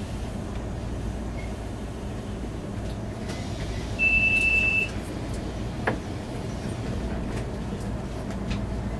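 Interior running noise of a Taiwan Railway EMU400 commuter train: a steady low rumble. About four seconds in, a single high steady beep lasts about a second, and a sharp click follows shortly after.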